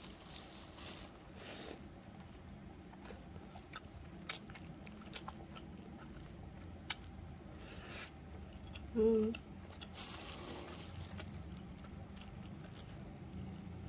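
A person chewing and biting soft fish cake (odeng), with wet mouth sounds and scattered small clicks. There is a brief hummed 'mm' about nine seconds in.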